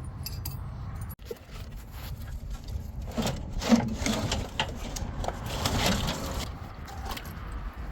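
Steel chain and loose metal clinking, rattling and scraping as they are handled, busiest in the middle few seconds.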